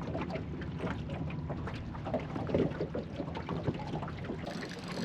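Small waves lapping and slapping against a small boat's hull in irregular little splashes, with some wind noise on the microphone.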